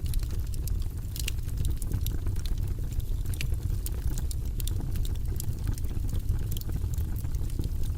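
Fireplace fire crackling, with many sharp, irregular pops and snaps over a low steady rumble.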